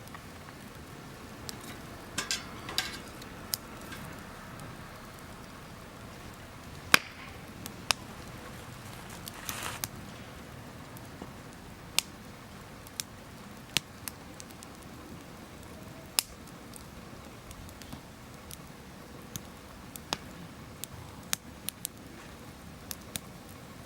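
Wood campfire crackling: sharp, irregular pops and snaps over a steady low hiss.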